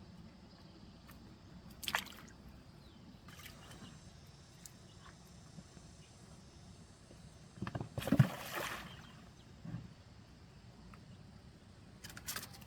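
Water sloshing and splashing around a small fishing boat on a lake, in scattered short bursts, the loudest about eight seconds in.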